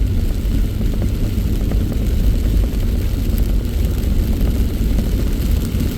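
Truck driving, heard from inside the cab: a steady low rumble of engine and road noise with faint scattered ticks.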